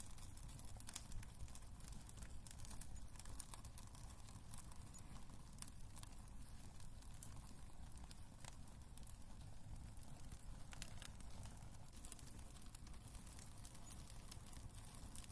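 Wood fire crackling in a fireplace: scattered sharp pops and snaps over a low steady rumble of burning.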